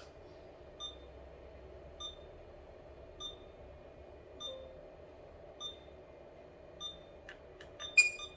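Short electronic beep repeating evenly about every 1.2 seconds, over a low steady hum; near the end come a few sharp clicks and one louder beep.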